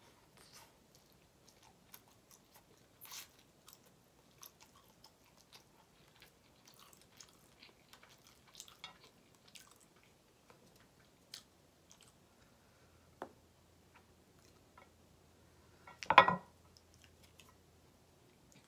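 Close-miked mouth sounds of someone eating instant ramen noodles: chewing with small wet smacks and clicks, and one louder short noise near the end.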